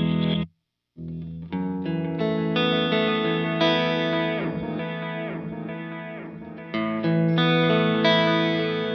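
Electric guitar (Fender Stratocaster through a light overdrive, the Sonicake Sonic Ambience delay and reverb pedal and a Vox AC30 amp) playing notes and chords that ring on with delay and reverb. The sound cuts out completely for about half a second near the start, then the playing resumes.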